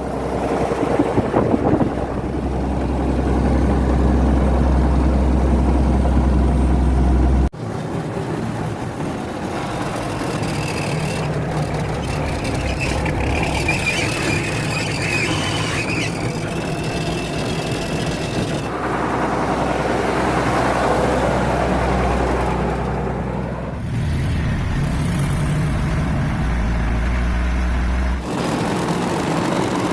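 Tata 1210 long-nose truck's six-cylinder diesel engine running as the truck is driven, a strong low drone whose level and pitch change abruptly a few times, with a sharp break about seven seconds in.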